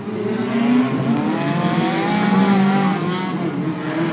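Cars' engines lapping a race circuit, the engine note rising and falling as they accelerate and back off.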